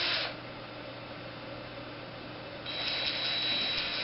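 DeWalt DCF885 20V MAX impact driver's motor whirring briefly with no load, the trigger lightly squeezed: one short run stopping just after the start and another starting near three seconds in. A faint steady hum lies underneath.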